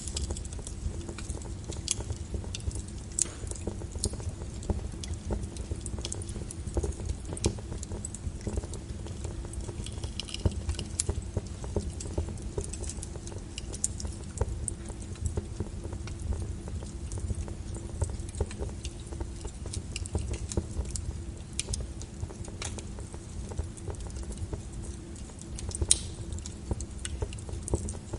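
Wood fire crackling in a fireplace: irregular snaps and pops over a steady low rumble of flames, with a sharper pop right at the start and another near the end.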